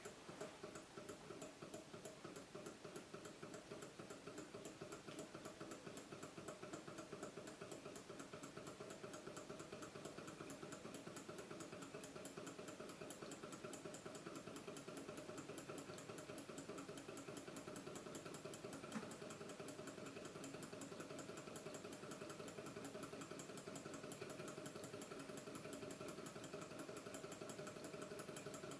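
Kit-built gamma-type low-temperature-differential Stirling engine running off a cup of hot water: a faint, fast, even clatter from its displacer and crank mechanism, with one sharper click about two-thirds of the way through.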